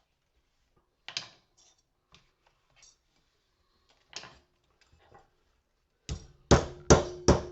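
Light scattered clinks of small pieces of brass and porcelain being handled on a bench. About six seconds in, four loud hammer blows in quick succession ring out, smashing a porcelain lamp holder to free the brass inside.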